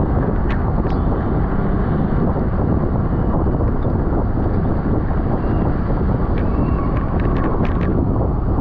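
Wind rushing over the microphone of a camera carried on a racing bicycle at speed, loud and steady. A few short sharp clicks, several of them close together near the end.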